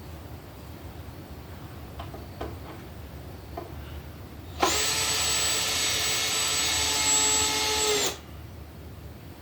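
Power drill running at steady speed for about three and a half seconds, starting about halfway in and cutting off sharply, with a few light clicks and knocks of handling before it.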